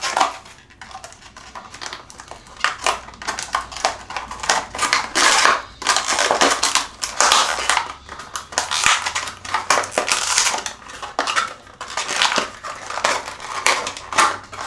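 Irregular crunching and scraping strokes of hand work on the plastic parts of a Moen shower valve cartridge, which is being cut and trimmed.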